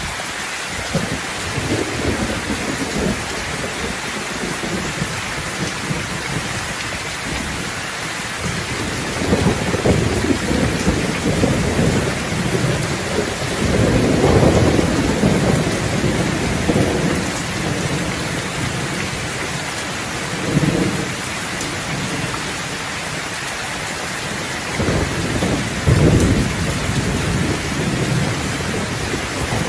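Steady heavy rain falling, with low thunder rolling through it in several long rumbles, the strongest about 9 to 17 seconds in and again about 26 seconds in.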